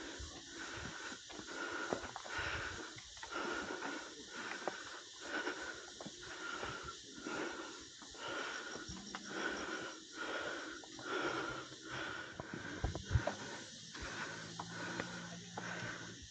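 Heavy, rhythmic breathing in and out at about one breath a second, as from someone climbing a steep trail.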